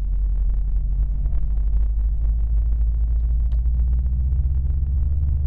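Engine of a 2011 Subaru WRX sedan running with a steady low rumble; its pitch rises slightly about three and a half seconds in. It is the car the owner says is making a weird noise.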